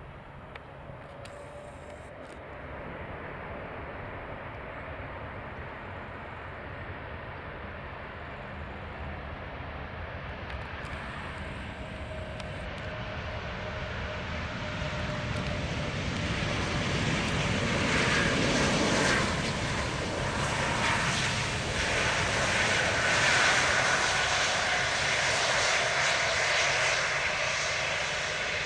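Airbus A330-243's Rolls-Royce Trent 700 jet engines on landing, growing steadily louder on approach, passing closest about eighteen seconds in, then staying loud through the rest as it rolls out on the runway.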